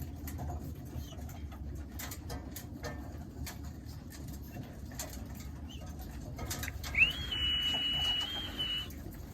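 Racing pigeons cooing in the loft, with scattered sharp clicks as they peck at their feed. About seven seconds in there is a loud click, then a steady high whistling tone that rises at its start and holds for about two seconds.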